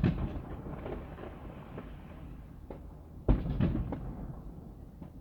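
Distant firework shells bursting: a low boom at the start, then a sharper, louder boom about three seconds in with a rumble that trails off over a second.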